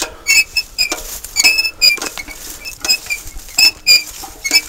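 Short high-pitched squeaks, a couple to three a second at an irregular pace, played as the squeaking of a treasure hunter's joints.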